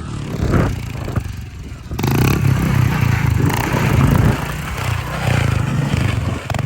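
Dirt bike engine running, getting louder about two seconds in.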